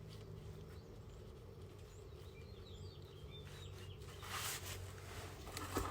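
Faint bird chirps over a low steady hum, followed by two brief rustling swishes near the end.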